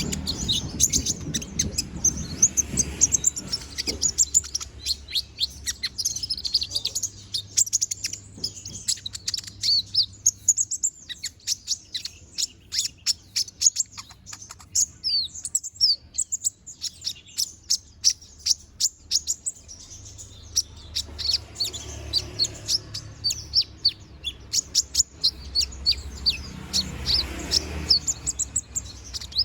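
Konin (kolibri ninja) sunbird singing a fast, unbroken run of high chirps and twitters, several notes a second.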